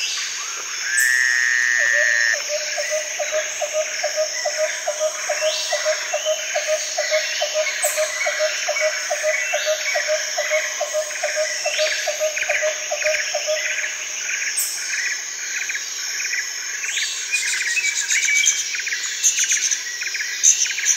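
Tropical rainforest ambience: a steady high insect drone with many short repeated chirping calls. A lower pulsed call repeats about three times a second from about a second in until about two-thirds of the way through.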